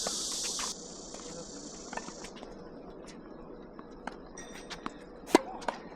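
Cicadas buzzing in a high-pitched drone that drops off abruptly under a second in, then trails away weaker over the next second and a half. A few light taps follow, and one loud sharp knock about five seconds in.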